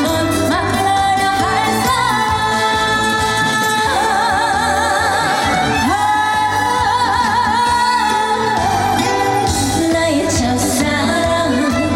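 A female trot singer singing over band backing music, holding long notes with a wide, wavering vibrato.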